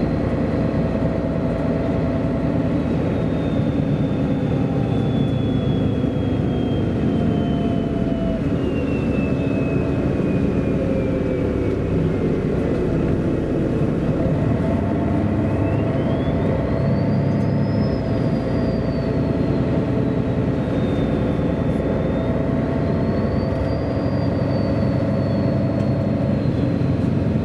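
MAN A23 articulated city bus on the move, heard from inside: steady engine and road noise. A high whine sinks slowly for about ten seconds, then climbs and falls again as the bus changes speed.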